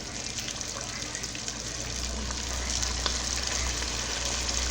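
Flour-coated chicken pieces deep-frying in a pot of hot oil: a steady sizzle full of fine crackles, getting a little louder about halfway through.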